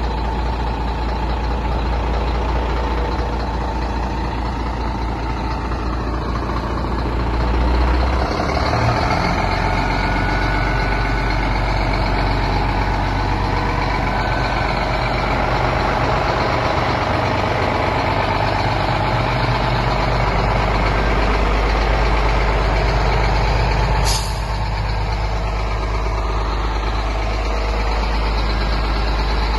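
Scania P330 truck's diesel engine running steadily, its note rising about eight seconds in. A short sharp sound about three-quarters of the way through, after which the engine is a little quieter.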